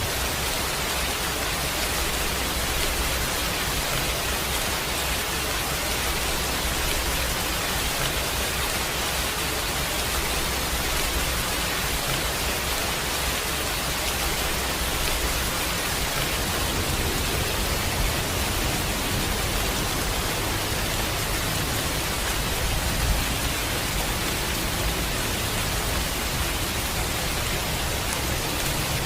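Steady, even rain hiss with a low rumble of distant thunder beneath it. The rumble shifts about halfway through, and there is a brief louder moment later on.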